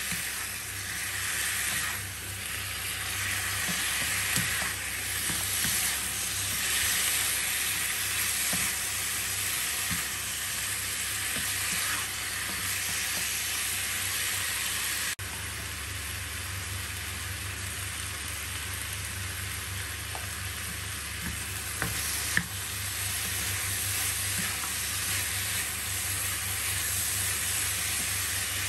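Pork rib pieces sizzling in oil in a wok, stir-fried with a wooden spatula, with scattered small scrapes and taps of the spatula on the pan. A low steady hum runs underneath.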